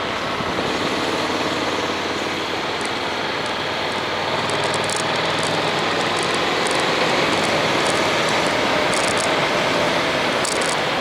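Honda X-ADV's parallel-twin engine running steadily while riding, mixed with the steady rush of wind and road noise.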